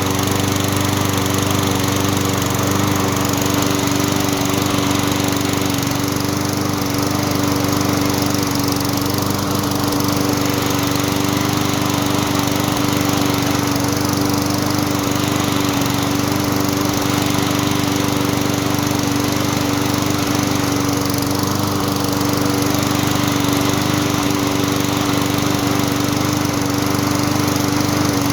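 Troy-Bilt TB330 lawn mower's 190cc Briggs & Stratton engine running steadily at an even speed, no longer surging, after its clogged carburettor jet was cleaned.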